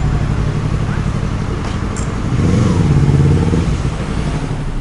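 Steady road and engine drone from a moving vehicle. About two and a half seconds in, an engine revs up and eases off again.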